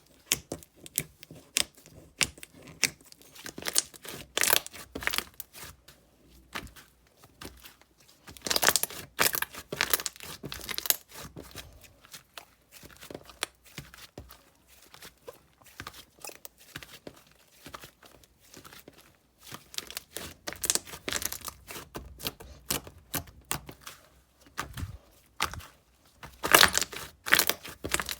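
Slime being squished and stretched by hand, giving a dense run of crackling clicks and pops, with louder bursts of crackling several times.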